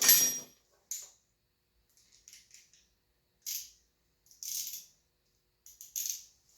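Metal hand tools clinking and rattling: a sharp ringing clink at the start, then a few short, scattered clicks and jingles.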